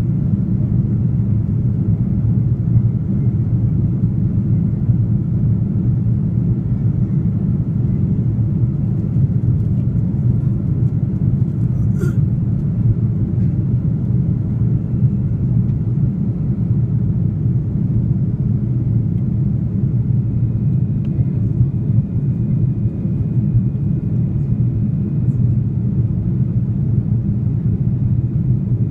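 Steady low drone of an Airbus A330-300's engines and airflow heard inside the passenger cabin, with a single brief click about twelve seconds in.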